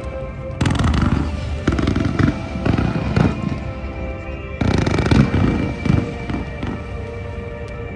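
Aerial fireworks bursting in a run of booms roughly a second apart, the heaviest about five seconds in, over music with long held notes.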